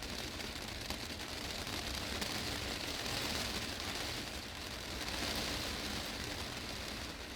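Heavy rain drumming on a glass greenhouse roof: a dense, steady hiss of drops on the glass that swells a little about three and five seconds in.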